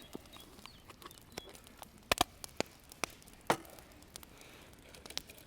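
A few sharp, irregular clicks and knocks over a quiet background, the loudest a quick double knock about two seconds in and another about a second later.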